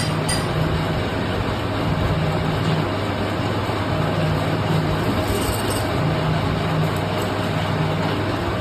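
Lathe machine running steadily: a constant low hum under an even noisy rush, with the hum swelling and fading every second or so.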